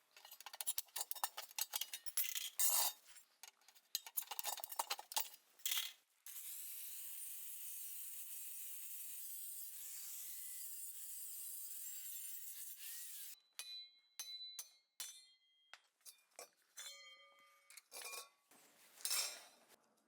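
Steel pieces clinking and scraping, then about seven seconds of the steady crackling hiss of stick (covered-electrode) arc welding on a 100 V welder. Near the end, separate metal taps that ring.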